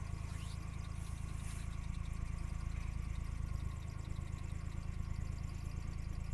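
Car engine idling, a steady low hum with nothing else standing out.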